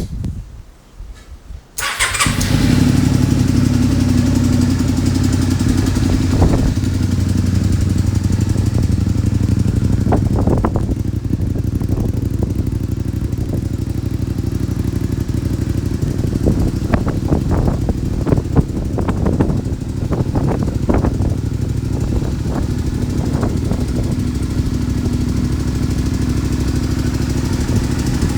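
Honda VTR250 V-twin with a center-up exhaust muffler starting about two seconds in, then running steadily at idle, with brief sharper blips now and then through the middle.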